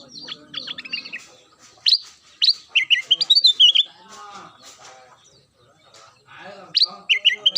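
Kutilang emas bulbul singing: quick, clear whistled notes falling in pitch, in two loud bursts of song, the first about two seconds in and the second near the end, with softer chatter between.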